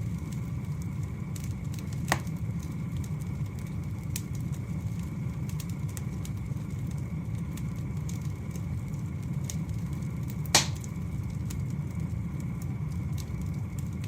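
Wood fire burning: a steady low rumble of flames with scattered small crackles and two louder sharp pops from the burning logs, one about two seconds in and a louder one near the end.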